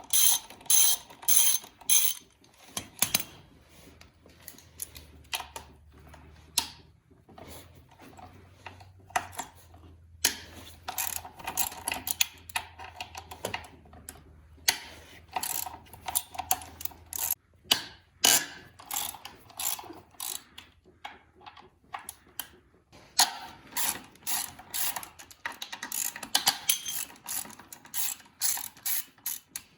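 Hand ratchet wrench clicking in quick runs of strokes with short pauses between, as bolts on a dirt bike's front end are loosened.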